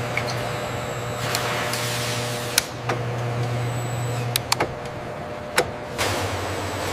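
Steady low machinery hum with a few sharp mechanical clicks, two close together about four and a half seconds in, and a hissing swell near the end.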